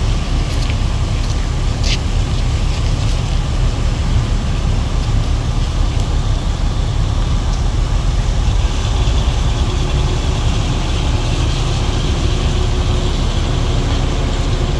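Diesel truck engines running during unloading from a ferry: a loud, steady low rumble, with faint steady engine tones joining from about nine seconds in.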